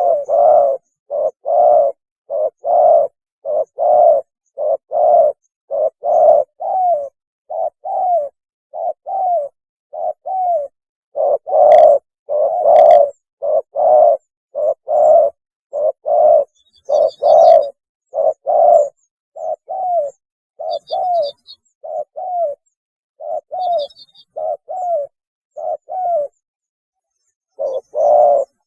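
Spotted dove cooing its mating call: a long, even run of short, low coos, about one to two a second, with a short pause near the end. Faint high chirps of another small bird come a few times in the middle.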